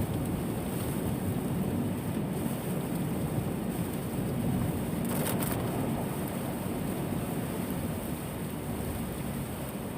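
Heavy typhoon rain and wind, a steady low rumbling noise, with a brief hiss about five seconds in.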